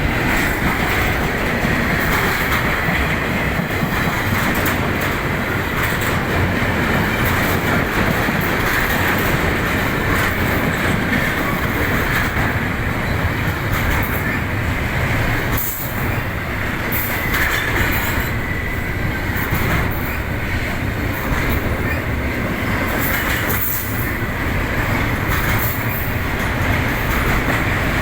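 Train cars rolling past on the rails: a steady rumble with a thin wheel squeal on top and occasional clicks as wheels cross rail joints.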